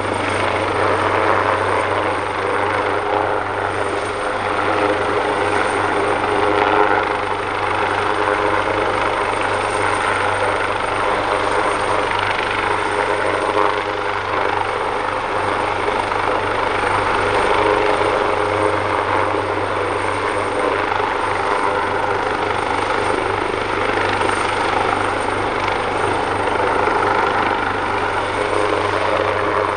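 Leonardo AW139 helicopter running steadily, its two Pratt & Whitney Canada PT6C turboshaft engines and five-bladed main rotor making a continuous loud noise with a steady high turbine whine on top.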